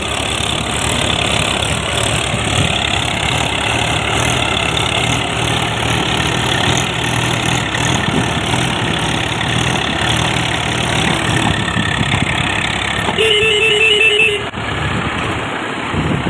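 Diesel tractor engine running steadily under work. About 13 seconds in, a short pulsing beep sounds for a second or so.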